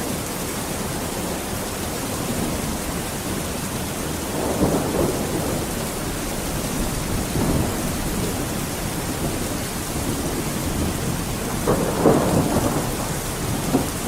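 Steady rain falling, with rolls of thunder swelling up twice, about five seconds in and again near the end.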